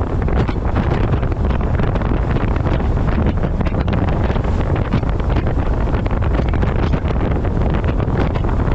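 Wind buffeting a camera microphone mounted on the front of a moving truck: a loud, steady rumbling roar.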